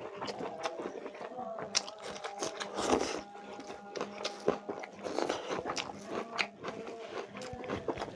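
A person chewing and biting into chicken leg curry with rice close to the microphone, with many short irregular clicks from mouth and food.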